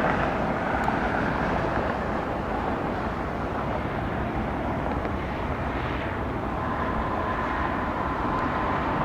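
Jet engines of a departing CRJ-900 regional jet: a steady rushing roar, with a faint steady whine coming in about two-thirds of the way through.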